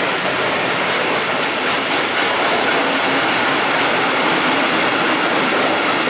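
Freight wagons loaded with steel coils rolling slowly past on the rails, their wheels clicking over the rail joints. A brief thin high squeal comes from the wheels about a second in.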